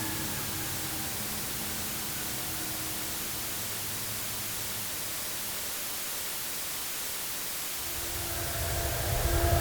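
Airplane sound: a steady, even hiss, with a faint falling whine that fades out in the first couple of seconds. About eight seconds in, a louder low rumble with steady tones starts to rise.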